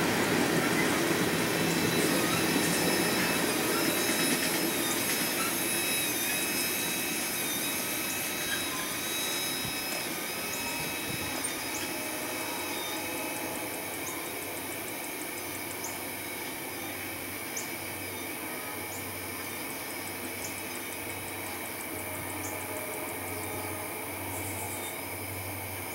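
Freight train of tank cars rolling away, the wheels rumbling on the rails with thin wavering squeals, fading steadily as the last cars pass and draw off into the distance.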